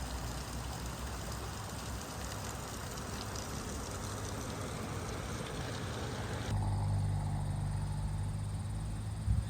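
Honda CRF250 Rally's single-cylinder engine running. At first it sits under a broad rushing noise. About two-thirds of the way through the sound changes abruptly to a louder, steadier low engine hum, with a couple of thumps at the very end.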